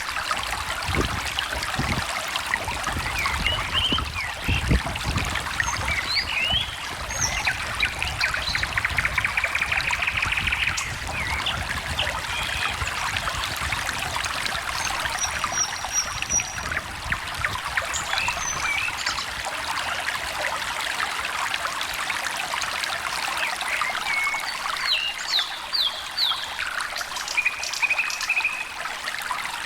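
A small stream trickling and babbling steadily, with several songbirds chirping and trilling over it throughout.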